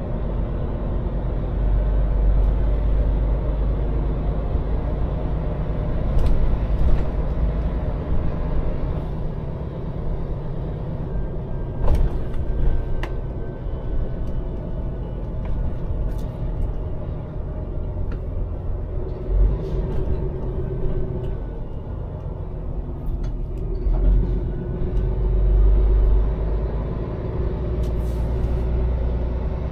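Scania lorry's diesel engine running with road rumble as the truck drives in traffic, the engine note rising and easing. A few short knocks and hisses stand out now and then.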